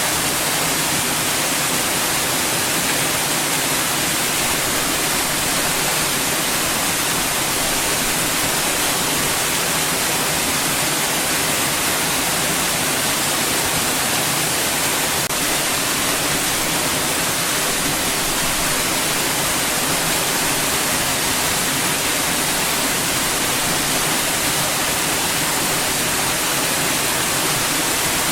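Steady white noise, an even hiss spread across the whole range and brightest in the highs, unchanging in level.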